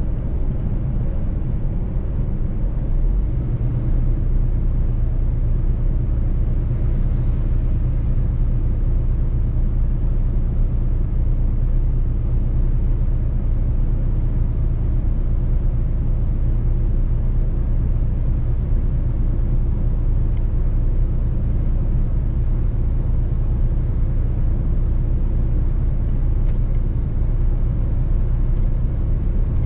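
Mercedes-Benz truck driving along a road: a steady low engine and road rumble that grows a little fuller about three seconds in.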